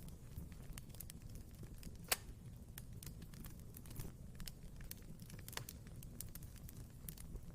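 Wood fire in a fireplace crackling: scattered sharp snaps and pops over a low, steady rumble of flame, with one louder pop about two seconds in.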